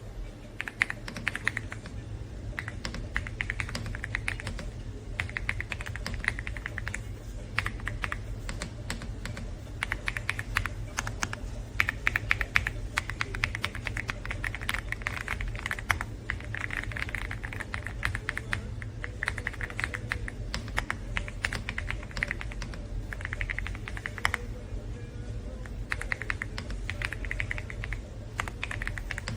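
AULA F99 mechanical keyboard being typed on: fast runs of keystroke clacks lasting a second or two, with short pauses between runs.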